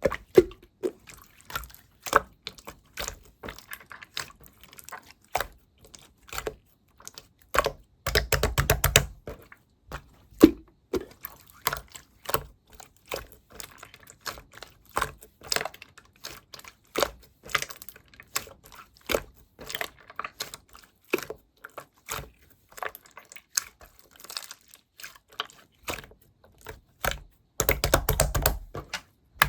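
Slime being played with by hand: a steady run of short, sharp clicks and pops, with two longer stretches of dense crackling, one about eight seconds in and one near the end.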